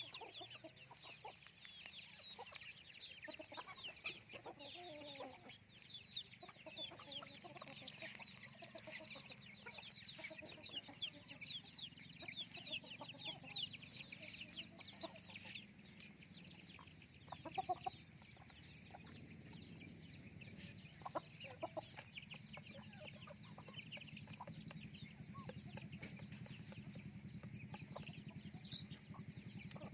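Village chickens clucking, with many chicks peeping in quick high cheeps that are densest in the first half. A low steady hum runs under the second half.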